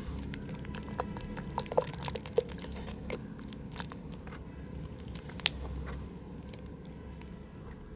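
Mud crumbling in a pot: a steady run of small crackles with a few louder, sharper clicks.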